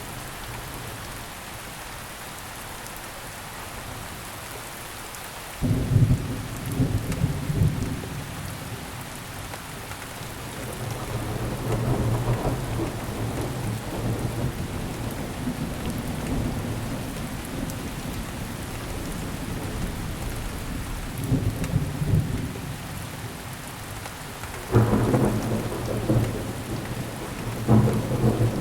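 Steady rain with thunder: a low rumble breaks in abruptly about six seconds in and rolls on, and further rumbles come later, the strongest two near the end.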